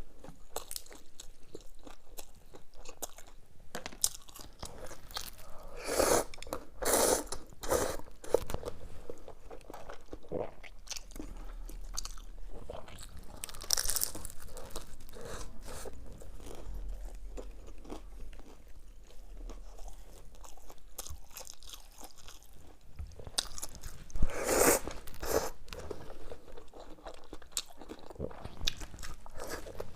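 Close-miked eating: a person chewing and biting crunchy food, with several louder spells of crunching bites a few times.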